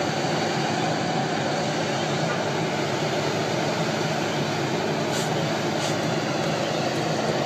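Steady road and wind noise of a moving car, heard from inside.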